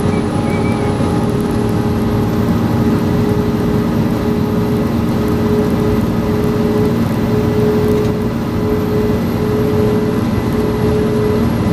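Fire engine driving on an emergency response run: steady engine and road noise, with a held tone that starts breaking off and resuming repeatedly about halfway through.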